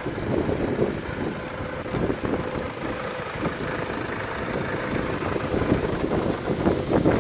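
Ford Transit Connect van's engine idling steadily.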